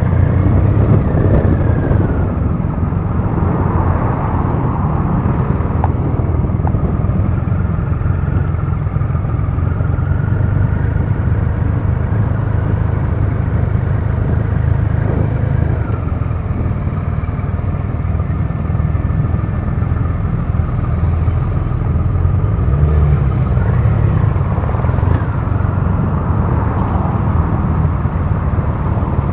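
Triumph Rocket III Classic's big three-cylinder engine running steadily as the motorcycle rides slowly in traffic, with a continuous low rumble and no sharp events.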